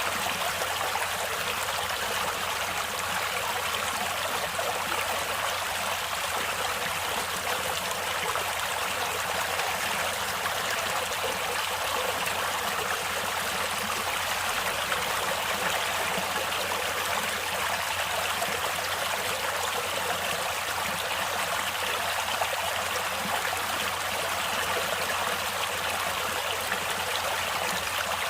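Stream water flowing and splashing over rocks, a steady rushing with no change.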